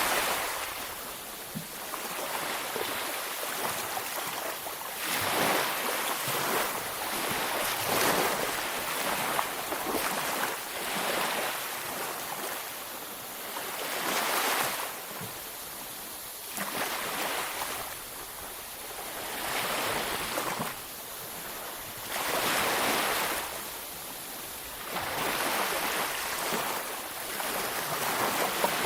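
Ocean waves breaking on a beach, the surf swelling and falling back every few seconds over a steady hiss.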